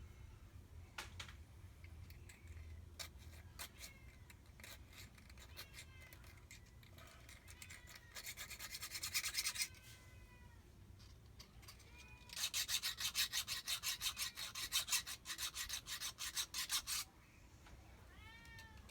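Hand file rasping on a metal jet-ski pump part, in two runs of quick back-and-forth strokes, the second one longer, about five strokes a second.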